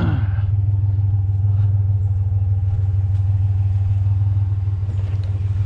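Pickup truck engine running with a steady low drone.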